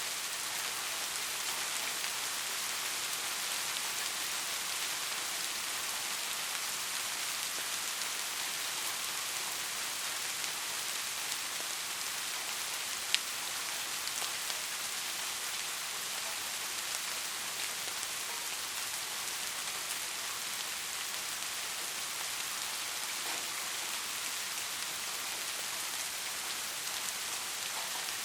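Steady rain falling, an even hiss of many drops with one sharp drop-like click about halfway through.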